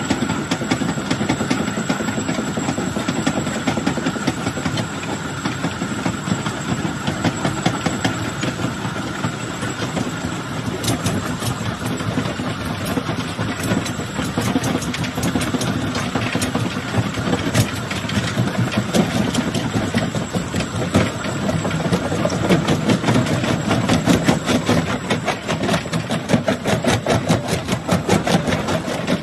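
Jaw crusher running under load, rocks cracking and clattering between its jaws in a dense, continuous stream of sharp knocks over a steady machine rumble. The knocks become thicker and louder from about halfway.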